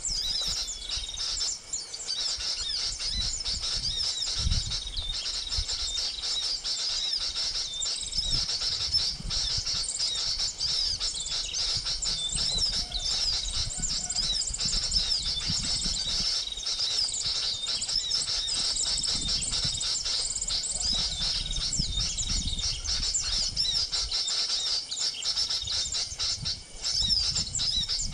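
Small birds twittering continuously in dense, high-pitched chirps. Irregular low rumbling comes and goes underneath.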